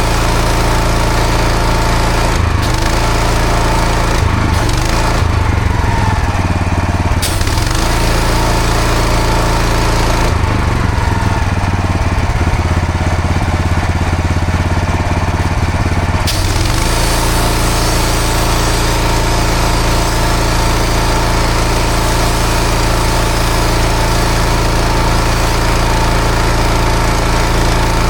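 Pressure washer running steadily, its engine humming under the hiss of the water jet cleaning block paving; the hiss thins out twice and comes back fully about sixteen seconds in.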